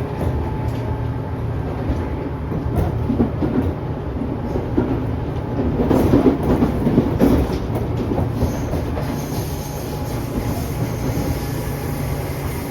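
Running noise inside a Tobu 10000 series electric train's motor car: a steady rumble of wheels on rail, with a louder patch of clattering knocks over rail joints about six to seven seconds in.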